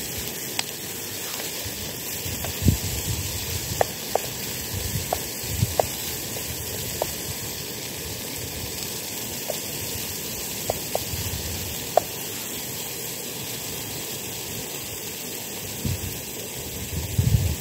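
Chicken and peppers frying in a pot on a gas-fuelled Trangia camping stove: a steady sizzling hiss with scattered small pops and crackles, and a few low knocks from a wooden spoon stirring the pot.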